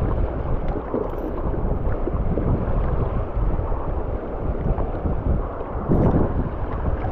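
Steady rushing of river rapids around a kayak, with wind buffeting the microphone.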